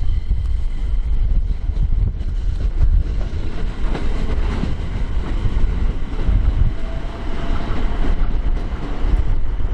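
Electric train running through a station with a heavy, steady low rumble, and a faint rising motor whine about seven seconds in.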